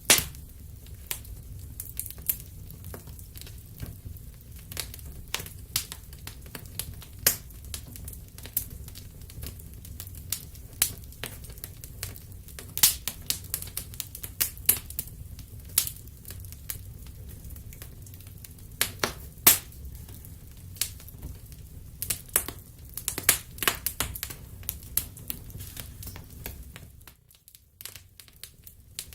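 Wood fire crackling in a fireplace: irregular sharp pops and snaps over a low steady rumble. The rumble drops out briefly near the end.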